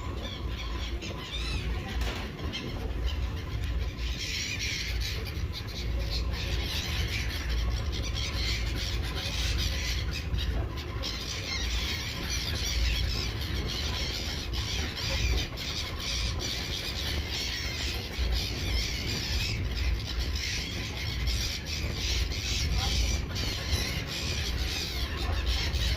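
A flock of seagulls calling, many high cries overlapping, growing denser about four seconds in, over a steady low rumble.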